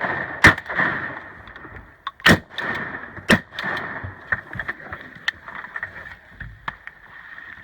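Three shotgun shots: one about half a second in, one at about two seconds and another a second later, followed by a few fainter clicks and knocks.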